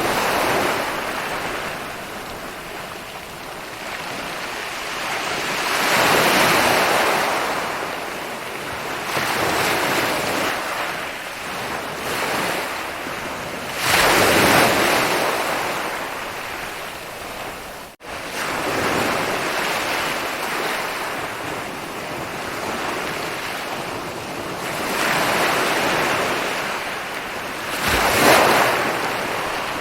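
Ocean waves breaking and washing up a beach, the surf swelling and fading every few seconds, with a sudden brief cut in the sound about two-thirds of the way through.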